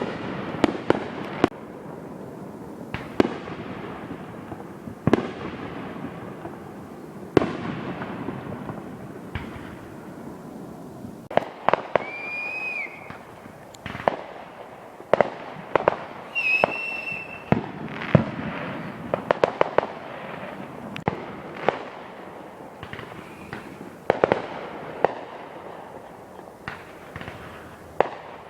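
Fireworks going off: a run of sharp bangs and crackles at irregular intervals, with two short high whistles near the middle.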